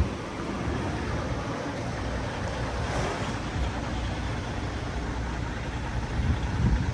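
2002 Chevrolet Express van's engine idling steadily, with wind rumbling on the microphone.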